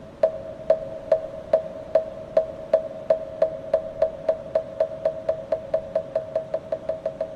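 Korean Buddhist moktak (wooden fish) struck with a mallet: hollow wooden knocks on one pitch, starting about two a second and speeding up steadily into a fast run of strikes.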